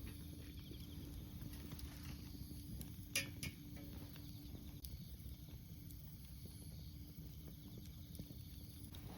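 Small wood fire burning in a compact camping wood stove, with faint scattered crackles and one sharper pop about three seconds in.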